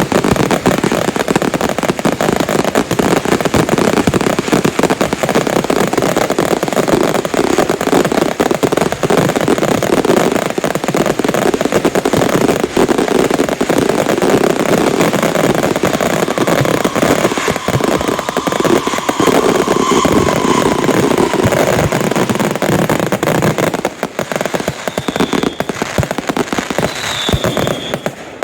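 Retail consumer fireworks firing in a dense, continuous barrage of rapid bangs and crackles, which thins out about 24 seconds in.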